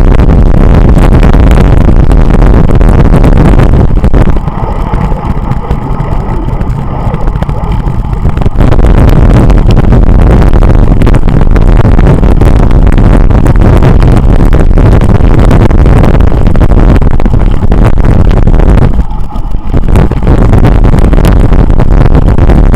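Loud, constant wind buffeting on the microphone of a camera riding on a moving bicycle, mixed with road noise. It eases for a few seconds about four seconds in and again briefly near the end.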